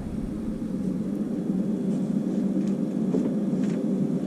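Water running into an electric water heater's tank as it refills: a steady low rush, with a few faint clicks about halfway through.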